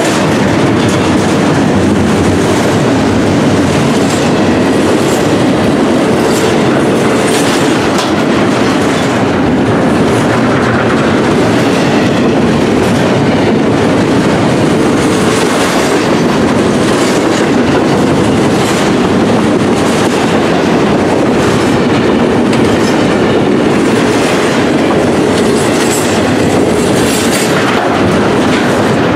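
Double-stack intermodal freight train rolling past close by: a steady rumble of steel wheels on rail, with repeated clicking as the wheels run over rail joints.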